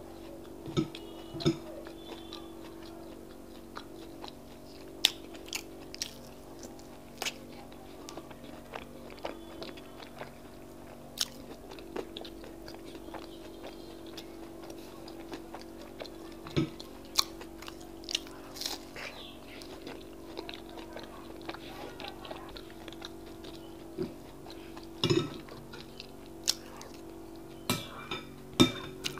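Close-up mouth sounds of a person chewing akara (fried bean cakes) dipped in custard, with scattered sharp wet smacks and clicks over a steady low hum.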